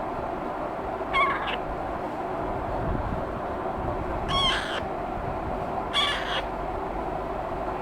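Indian ringneck parakeet chicks giving short harsh squawks, three in all, over a steady background hiss.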